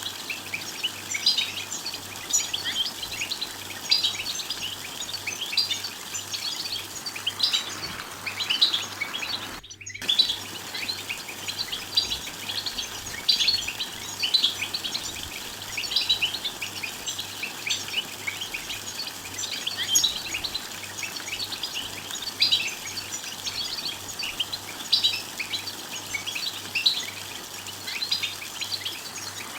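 Several European goldfinches twittering their short 'bitbit' contact calls: a dense, continuous run of quick, high chirps, with a momentary break about ten seconds in.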